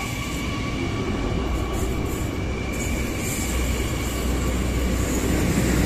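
Passenger train moving past along the platform: a steady rumble of carriages and wheels on the rails, growing louder over the last few seconds.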